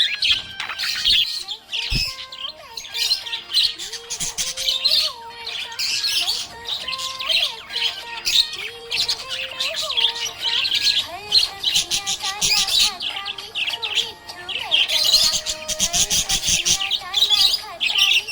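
Budgerigar chirping and chattering rapidly and without pause, with many quick high chirps and short warbles.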